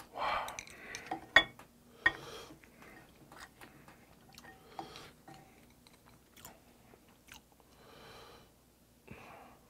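Close-miked chewing of mustard-leaf kimchi stew and rice, with many short sharp clicks, the loudest about a second and a half and two seconds in.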